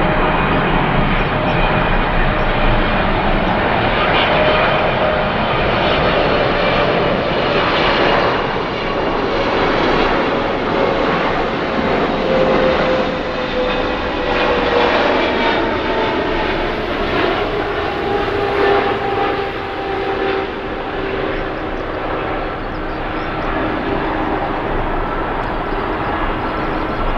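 Jet airliner's engines running loud and steady, with whining tones that fall slowly in pitch.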